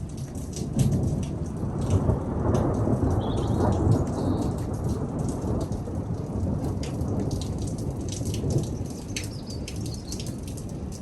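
Rolling thunder over steady rain: a deep rumble swells about a second in, is loudest for the next few seconds, then slowly fades, while raindrops keep pattering.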